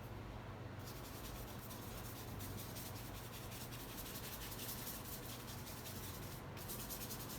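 Paintbrush rubbing in quick, short strokes: a dry, scratchy rub that pauses briefly near the end.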